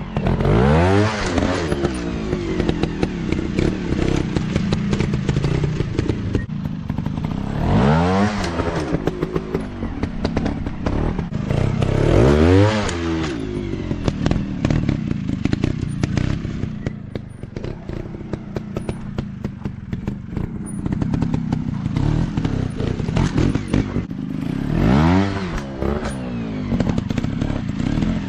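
Dirt bike engines on an off-road trail ride, revving in sharp throttle blips a few seconds apart with lower running between, with clattering and scraping.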